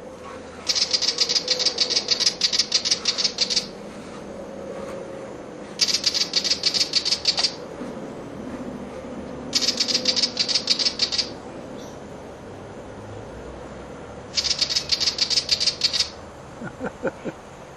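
Willie wagtail's scolding chatter: four bouts of rapid, dry rattling ticks, about five a second, each bout one and a half to three seconds long. It is the bird's alarm call, given at a butcherbird perched nearby.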